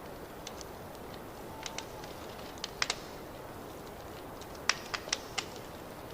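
Wood fire crackling in a fireplace: a steady low hiss with irregular sharp pops and snaps, a few coming close together around the middle and a cluster near the end.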